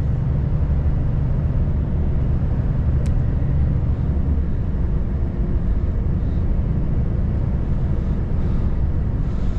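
Volvo FH540 truck's 13-litre six-cylinder diesel and drivetrain running at a steady low rumble while driving, with one faint tick about three seconds in.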